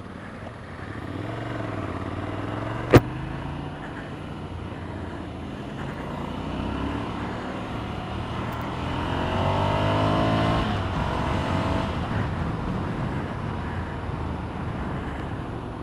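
Motorcycle engine running under way amid road traffic, pitch rising as it accelerates about nine to eleven seconds in. A single sharp click about three seconds in.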